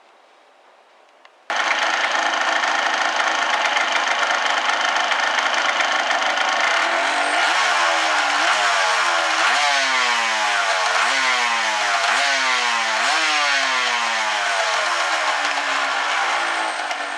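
Yamaha TDR250's two-stroke parallel-twin engine, newly restored, coming in suddenly after near silence and running steadily. Partway through it is revved in a series of quick throttle blips, about one a second, each pitch jump sliding back down, then it settles to a steady run.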